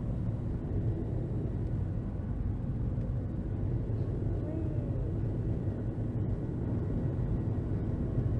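Steady low rumble of a Southwest Boeing 737's jet engines and airframe heard from inside the passenger cabin.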